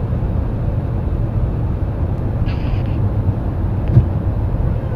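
Steady low rumble of jet aircraft engine noise, with one short thump about four seconds in.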